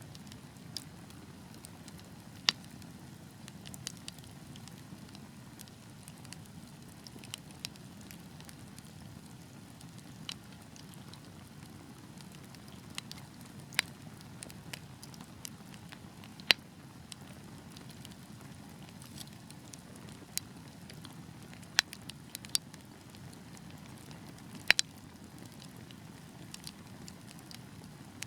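Wood fire burning with a steady low rush and irregular sharp crackles and pops, a few of them much louder than the rest.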